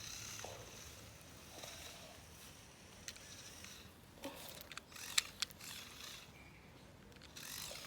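Faint whir of a Lego toy truck's small electric motors labouring in grass, with a few sharp clicks in the middle.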